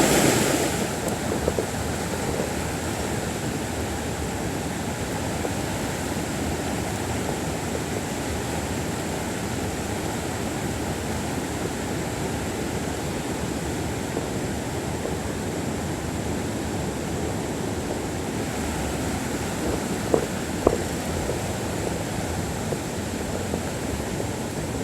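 Steady rush of a mountain stream's flowing water, with two faint knocks about twenty seconds in.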